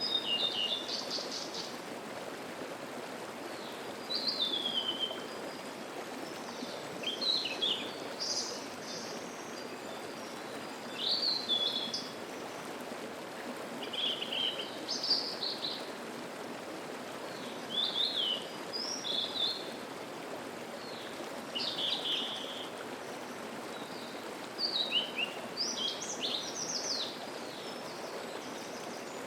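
Wild songbirds singing short, high phrases every few seconds over the steady rush of a mountain stream.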